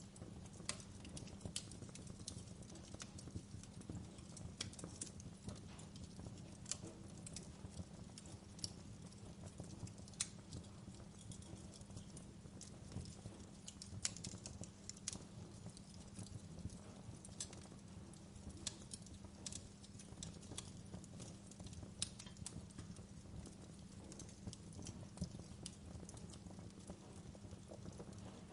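Wood fire in a fireplace crackling: irregular sharp pops and snaps, a few louder than the rest, over a low steady rumble.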